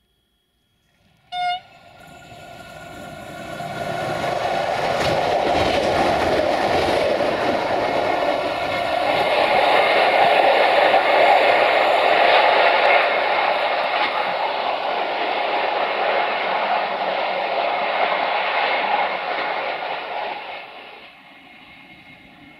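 Siemens Desiro VT642 diesel multiple unit passing: a short horn blast about a second in, then the engine and wheels on the rails building up, holding loud for several seconds and fading near the end.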